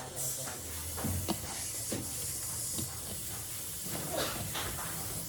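A steady hiss over a low hum, with a few scattered light clicks and knocks.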